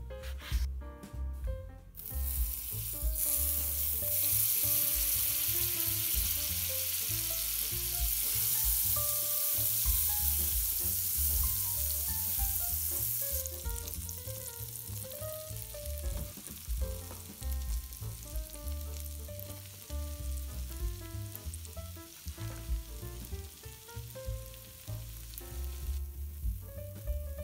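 A knife cuts through bread on a wooden board for the first two seconds. Then bread cubes fry in hot oil in a pan with a steady sizzle, loudest at first and dropping to a lower level about halfway through. Soft background music plays underneath.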